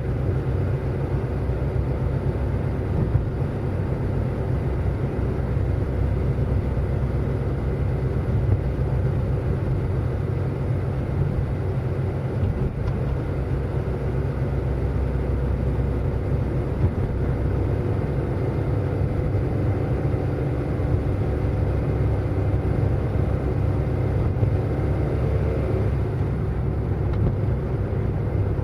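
Car driving at a steady speed: a continuous low rumble of engine and road noise with a faint steady hum.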